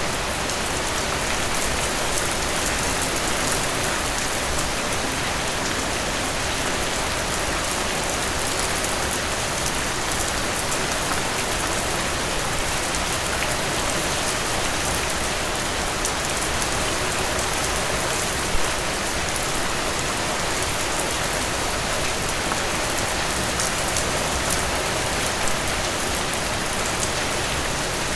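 Steady rain falling on a hard surface, with a dense patter of individual drops and one sharper drop tick about two-thirds of the way through.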